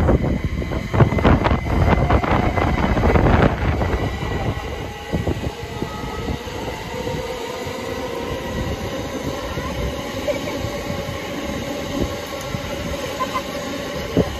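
Electric passenger train moving along a station platform. Loud wheel-on-rail noise with clattering knocks for about the first four seconds, then a steadier, quieter running sound with a faint whine that rises slightly.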